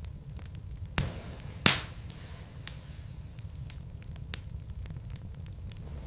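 Wood fire crackling in a fireplace: a steady low rumble of burning logs with frequent small ticks and two sharp pops about a second and a second and a half in, the second one the loudest.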